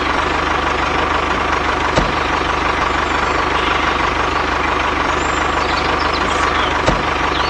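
A machine running steadily, like an idling engine, with a fast even beat; two sharp clicks cut in, about two seconds in and near the end.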